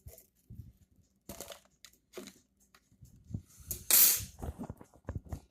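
Scattered clicks, knocks and rustles of the seeds' container being handled as it comes out of the fridge, with one loud crinkling rustle about four seconds in.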